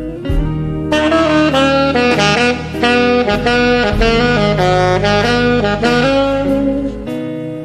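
Saxophone playing a blues solo, a melody of moving notes over a band with steady bass and accompaniment.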